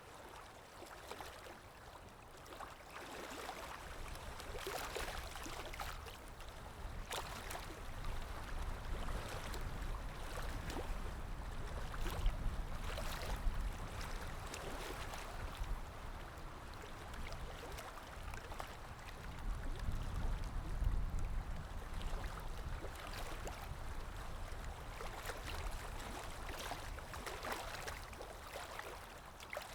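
Sea waves washing in and lapping, with many small splashes. The surf swells and ebbs, and deeper rumbles of larger waves come about twelve and twenty seconds in.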